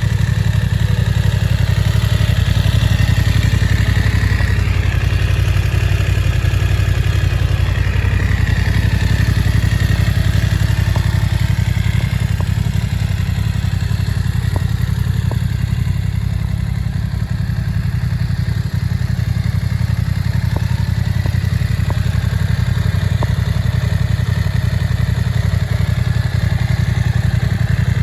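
BMW F 900 R's parallel-twin engine idling steadily.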